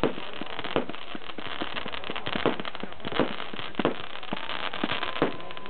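Fireworks going off: a run of irregular sharp pops and bangs, about two a second, over a steady crackling hiss.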